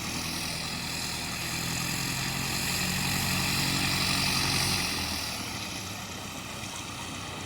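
Light propeller plane's engine running close by, growing louder to a peak about four seconds in and then fading away.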